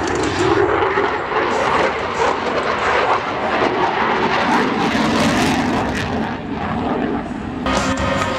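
Jet engine noise of a USAF F-16C Fighting Falcon in flight, a loud rush that swells and eases. Near the end, guitar music cuts in abruptly.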